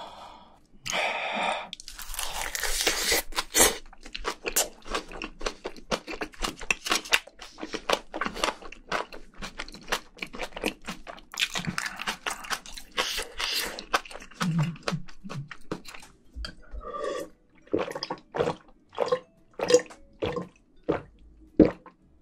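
Close-miked chewing and crunching of a mouthful of rice wrapped in roasted seaweed (gim) with spicy braised seafood: many short, quick crunches and wet mouth clicks in a steady run.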